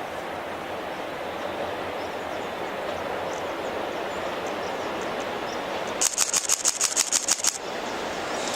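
Freight train hauled by a pair of JR EF64 electric locomotives approaching, its rail noise a steady rumble slowly growing louder. About six seconds in comes a rapid run of about a dozen sharp, high-pitched clicks lasting a second and a half.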